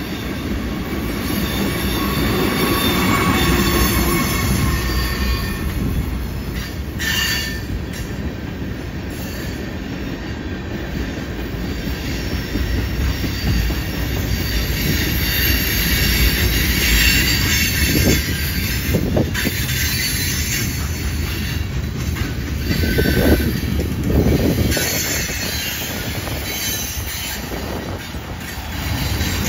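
Freight train's tank cars and covered hoppers rolling past on a curve: a steady rumble of steel wheels on rail, with wheel flanges squealing against the curved rail and a few short, louder squeals.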